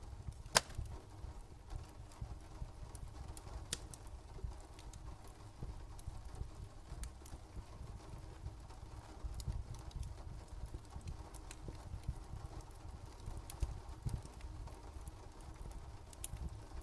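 Faint crackling fire: scattered sharp pops and clicks over a steady low rumble, with one louder pop about half a second in.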